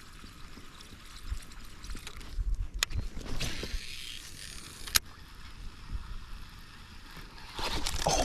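Water splashing and sloshing around a fishing kayak, with two sharp knocks about three and five seconds in.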